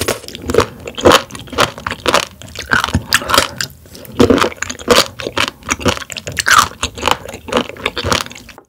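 Close-miked chewing of raw warty sea squirt (Styela plicata), a rapid run of crunches as the tough skins are bitten through.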